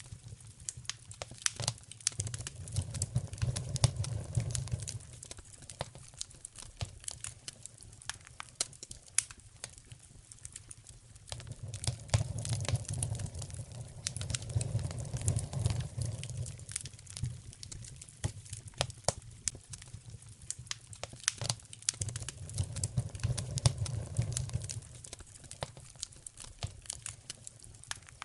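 Wood fire crackling and popping in a fireplace, with sharp snaps scattered throughout. A low rumble swells and fades three times, about every ten seconds.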